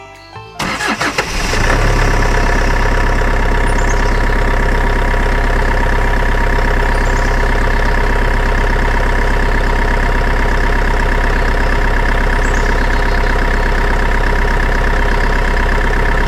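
Small engine of a homemade mini tractor starting up about a second in, then running steadily at an even pitch.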